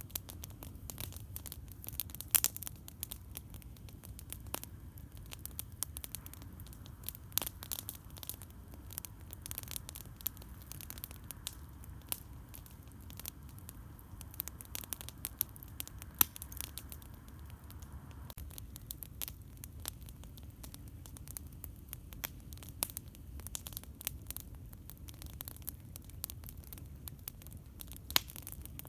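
Wood campfire crackling, with irregular sharp pops and snaps, two louder ones about two seconds in and about sixteen seconds in, over a steady low rumble.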